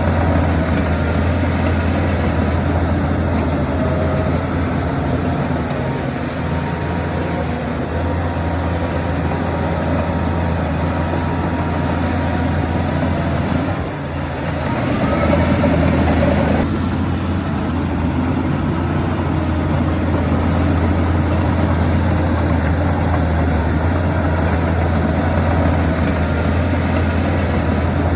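Heavy diesel earthmoving machinery running with a steady low drone. About halfway through the sound dips briefly, then swells louder with a rising pitch for a couple of seconds before dropping back sharply to steady running.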